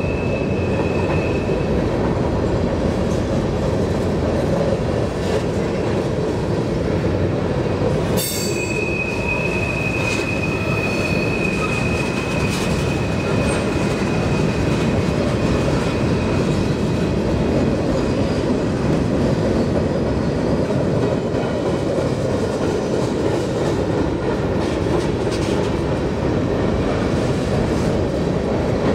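Wheeling & Lake Erie freight train rolling on the rails: a steady, dense rumble of wheels and cars with light clicking. A high, steady wheel squeal sounds at the very start and comes back after a sharp knock about a third of the way in, lasting several seconds.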